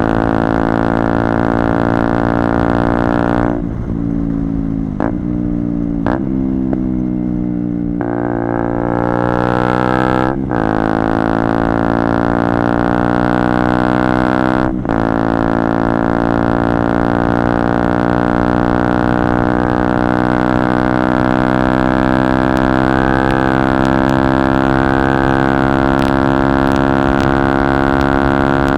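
KTM Duke 125 single-cylinder four-stroke running through a Radical Racing GP carbon exhaust with its dB-killer missing, so it is unbaffled. The throttle closes early on with two quick revs on the way down, then the engine pulls up through the gears with two upshifts, about ten and fifteen seconds in, and settles into a steady high-revving cruise.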